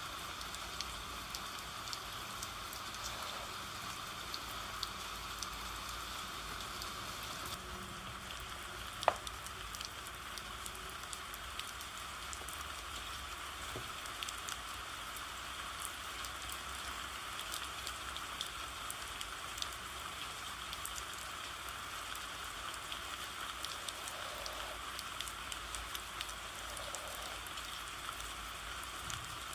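Steady rain falling, with a patter of drops. One sharp click about nine seconds in.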